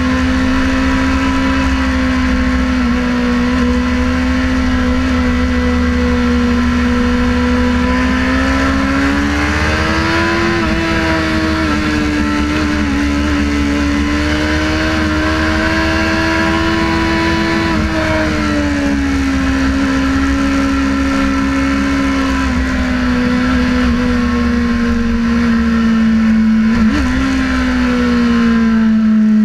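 Sportbike engine running at high, steady revs under way, its note rising slowly about a third of the way in and easing back down later, over a constant low rush of wind. Near the end the pitch drops away with a brief blip.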